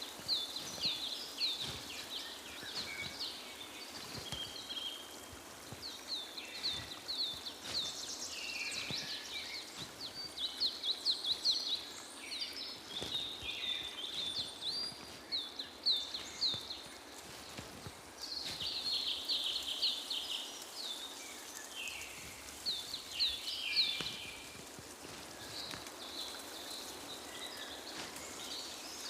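Several small birds chirping and twittering together, many short high notes overlapping in dense bursts.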